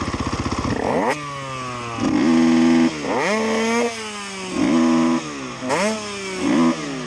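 KTM EXC enduro motorcycle engine, a single-cylinder, idling with a low pulsing beat, then revved hard about a second in and again several times: each blip climbs quickly in pitch, holds briefly high and falls back.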